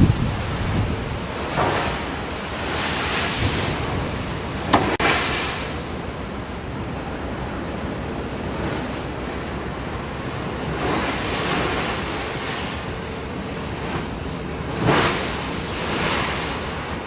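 Heavy seas breaking and washing against a ship, with wind buffeting the microphone. Several louder rushes of water surge through the steady noise, and there is one sharp slap about five seconds in.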